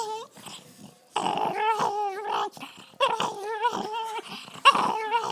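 Dog growling in three long, wavering, pitched bouts: a guarding growl over a pizza crust that someone is too close to.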